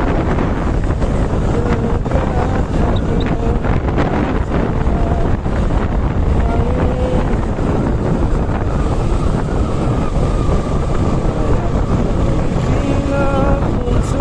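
Heavy wind rushing over the microphone while riding a Suzuki Gixer SF motorcycle, its engine running underneath. A short pitched tone sounds near the end.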